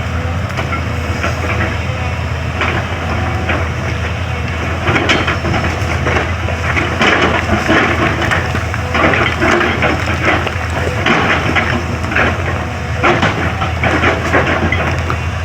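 Excavator's diesel engine running steadily while the bucket digs into the road surface with irregular crunching and scraping. The crunching gets heavier about five seconds in.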